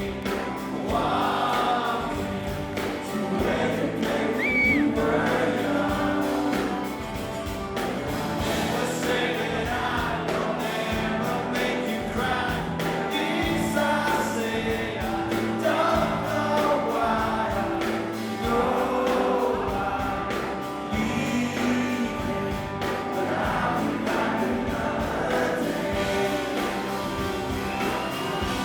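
Live rock band playing a song, with a male lead voice and many voices singing along, as a concert crowd does.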